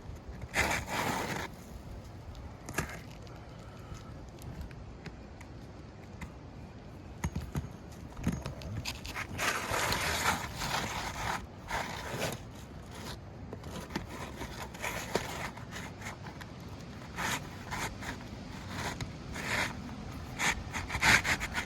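Asphalt roof shingles scraping and rubbing as they are lifted and worked loose, in irregular bursts of a second or two with short pauses between.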